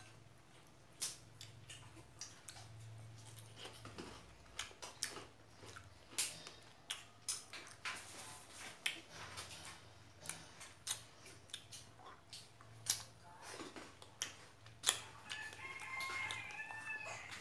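Close-up wet chewing and mouth smacking of fresh strawberries, a steady run of short clicks. Near the end a rooster crows in the background.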